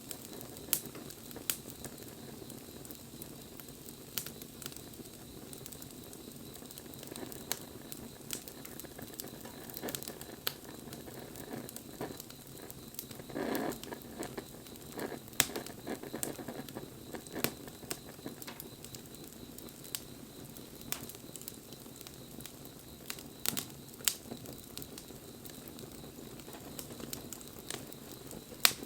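Wood fire crackling, with irregular sharp pops over a steady low hiss and a short louder rush of crackling about halfway through.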